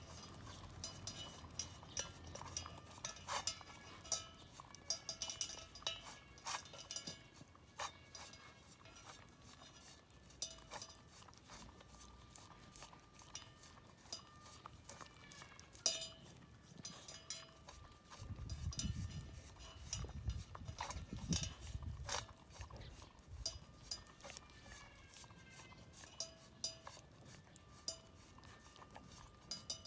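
Shiba Inu eating from a metal pot: many sharp clicks and clinks as its teeth and tongue knock the pot, which rings briefly after each knock. There are a few seconds of low thumping past the middle.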